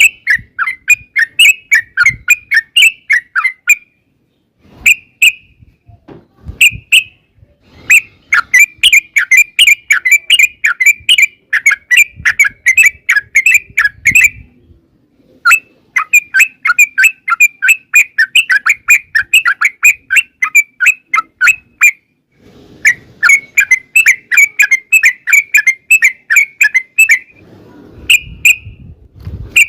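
Yellow-vented bulbul (trucukan) singing a long rapid-fire song: runs of quick bubbly notes, about five a second, in bouts of several seconds broken by short pauses.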